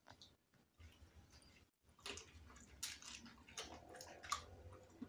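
Faint chewing of a cooked chicken foot, beginning about two seconds in, with a few soft clicks.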